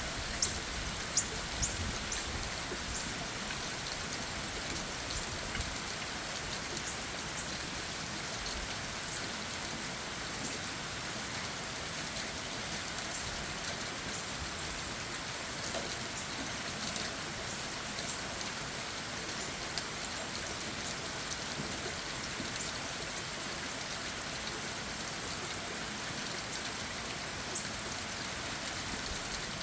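Steady rainfall, drops tapping on leaves and ground, with a few louder single drips in the first couple of seconds.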